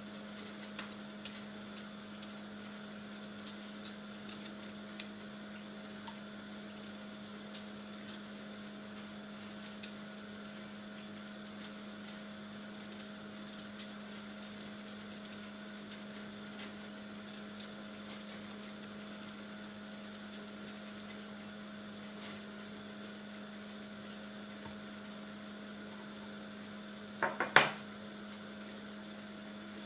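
Steady electrical hum from a kitchen appliance, with light clicks and taps of kitchen work, and a quick cluster of three or four louder knocks near the end.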